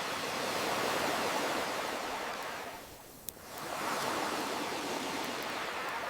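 Ocean waves washing in, one surge fading out about halfway through and the next swelling in a second later, with a single sharp pop from a campfire in the lull.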